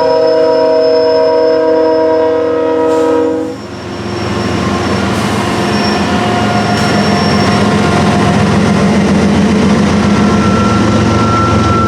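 Amtrak passenger train led by two GE P42 diesel locomotives: a long multi-note horn blast that cuts off about three and a half seconds in, then the steady rumble of the train passing.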